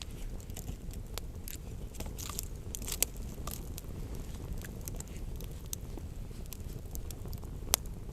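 Campfire crackling, with scattered small snaps of burning wood over a steady low rumble and two louder pops, one about three seconds in and one near the end.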